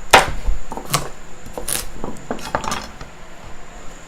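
Knife chopping celery on a cutting board: a handful of uneven sharp knocks, the loudest at the start and a few more close together about two and a half seconds in.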